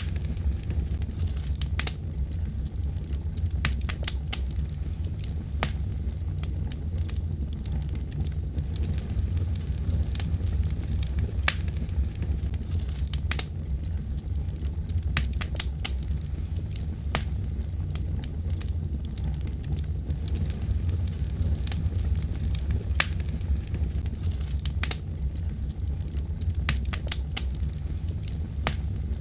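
Wood fire burning with a steady low rumble and irregular sharp crackles and pops every second or two.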